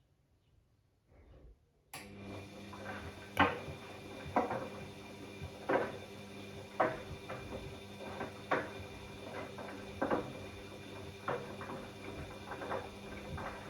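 Bosch Classixx 6 front-loading washing machine in the early wash phase of a cottons 90 cycle, before heating: after a short pause the drum motor starts up suddenly about two seconds in and the drum turns with a steady hum. Irregular clinks and knocks, roughly one a second, come from the wash load tumbling in the drum.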